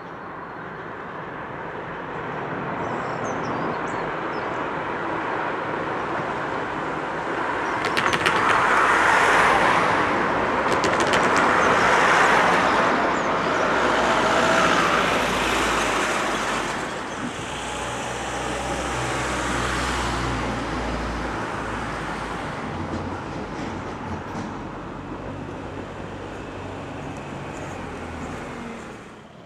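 A train passing unseen behind the fence: a rumble that builds, peaks with a cluster of sharp clicks about eight to twelve seconds in and a low steady hum a little later, then fades away.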